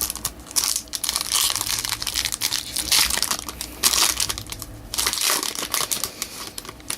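Foil trading-card pack wrapper crinkling and tearing as it is opened by hand: a dense crackle that comes in bunches and dies away about six seconds in.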